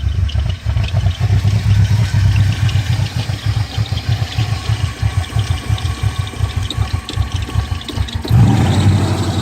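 BMW E39 540i V8 engine idling roughly with an uneven, stumbling beat: a nasty misfire, logged as misfires on cylinders 4, 7 and 8 that the owner suspects come from a vacuum leak. Near the end it runs louder and steadier.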